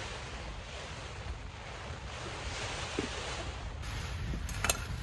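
Heavy rain and gusting wind on a lavvu tipi tent, a steady rushing noise as the tent shakes. A couple of sharp clicks come near the end.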